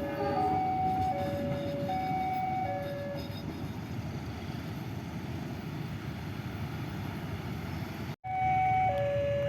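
Passing train rumbling, with a two-tone electronic alarm alternating between a low and a high note about every 0.8 s. The alarm fades out about three seconds in, leaving the train's rumble, and after a brief dropout returns louder near the end.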